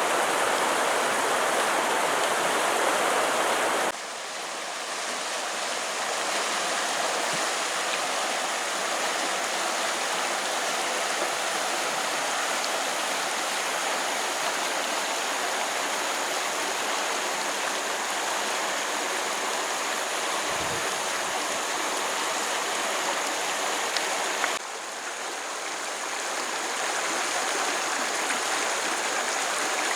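Stream water rushing and flowing steadily. The sound changes abruptly about four seconds in and again near the end, as if cut to a different stretch of water, and there is a brief low thud about two-thirds of the way through.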